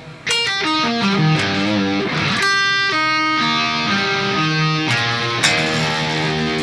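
Electric guitar tuned down to E flat playing an arpeggio through an inversion shape, single notes following in quick succession, with a held note ringing about halfway through and another ringing out near the end.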